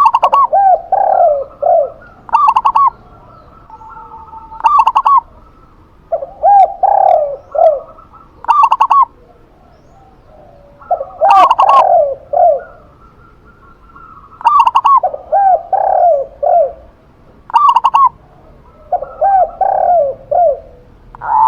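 A zebra dove and a spotted dove cooing in turn. Short phrases of higher, clipped coos alternate with lower, rolling coo phrases, a phrase every two seconds or so.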